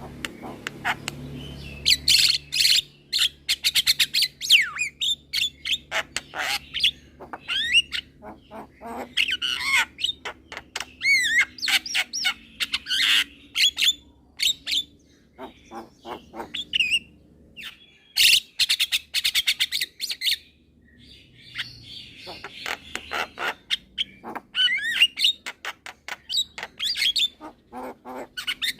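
Young Javan myna singing vigorously: fast chattering clicks, harsh squawky notes and quick whistled glides, in bursts broken by short pauses.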